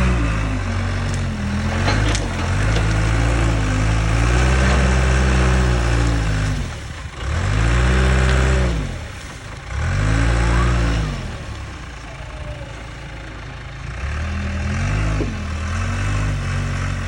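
Engine revving up and falling back again and again, its pitch rising and dropping every couple of seconds, with quieter lulls between the revs.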